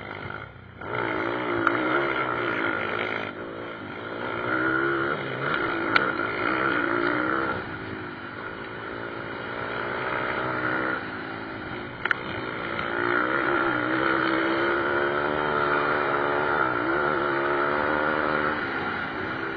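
Pit bike engines revving hard and easing off during a motocross race. The pitch rises and falls repeatedly and the sound swells and fades as bikes pass. Two sharp clicks come about six and twelve seconds in.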